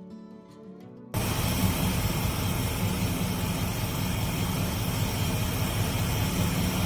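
Car engine running steadily at a constant speed, cutting in abruptly about a second in over the tail of quiet guitar music; it is the Chevrolet 350 V8 fitted to a restored 1937 Pontiac coupe.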